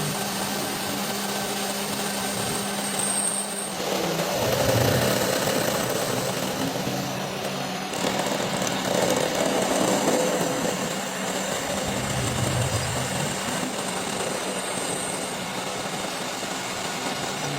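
Machinery running continuously, changing sharply about four seconds in and again about eight seconds in.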